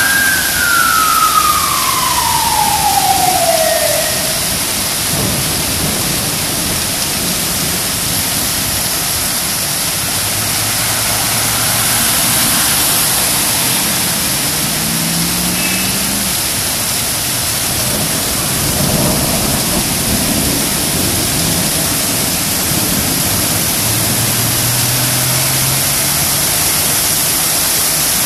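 Heavy rain falling as a steady loud hiss. In the first few seconds a siren wails downward in pitch and fades out, and faint low vehicle engine hums come and go later on.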